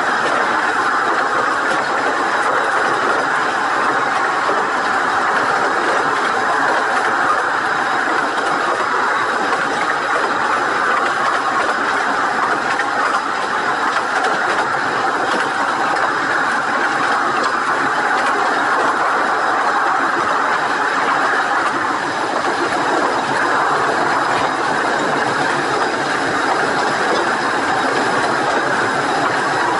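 Steady running noise of a 15-inch gauge miniature railway train rolling along the track, heard from on board a carriage.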